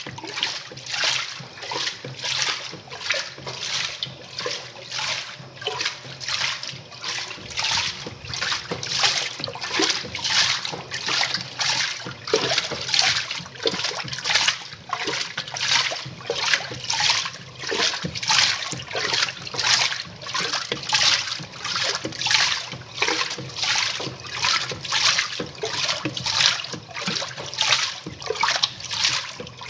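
Semi-automatic top-loading washing machine agitating its load, water sloshing and splashing in even surges about twice a second over a steady low motor hum.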